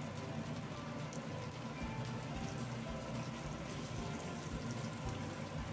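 Floured chicken fillets frying in hot olive oil in a nonstick pan: a steady, quiet sizzle.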